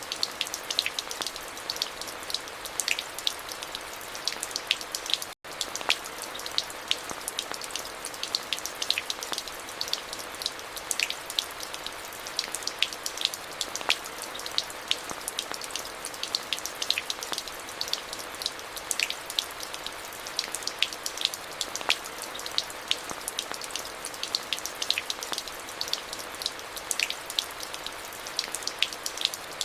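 Steady rain falling, a continuous hiss with many close, sharp drops pattering on surfaces. It cuts out for an instant about five seconds in.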